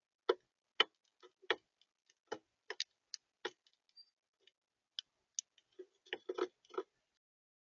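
Birds tapping and pecking at a feeder close to the microphone: a run of sharp, irregularly spaced clicks and knocks, bunching into a quick flurry near the end.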